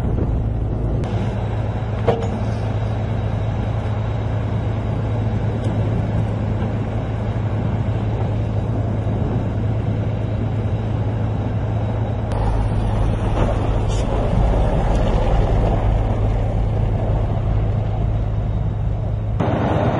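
A large engine running steadily with a low hum under mechanical noise. The sound changes abruptly a few times and gets somewhat louder in the later part.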